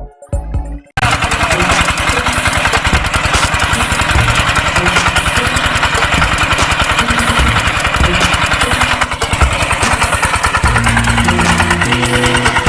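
Filterking 188 hand tractor engine running steadily with a fast, even beat. It cuts in abruptly about a second in, after a moment of background music.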